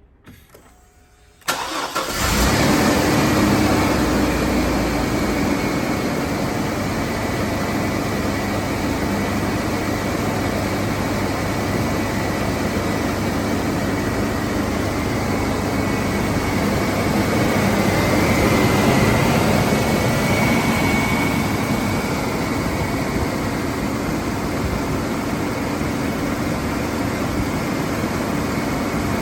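1999 Chevrolet Blazer's 4.3-litre V6 cold-starting: a short crank that catches about two seconds in, a brief louder flare, then a steady idle.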